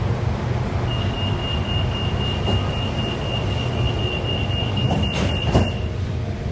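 Monorail train running along its track: a steady low rumble, with a thin high whine or squeal that holds steady from about a second in until near the end. Two brief knocks come near the end.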